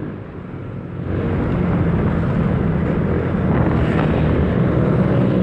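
Yamaha Mio 1 scooter's engine running steadily under way, with wind and road noise; the sound grows louder about a second in and then holds even.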